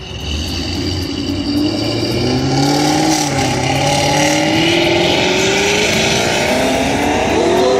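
A car's engine under hard acceleration, loud, its note climbing steadily over several seconds.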